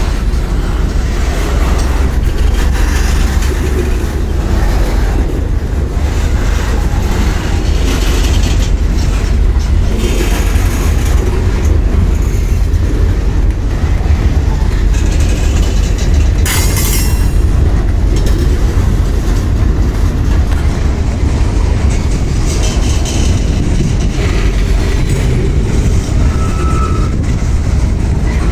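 Freight train of boxcars rolling past close by: a steady loud rumble of steel wheels on rail, with clacking over the rail joints. A brief high-pitched squeal comes about seventeen seconds in.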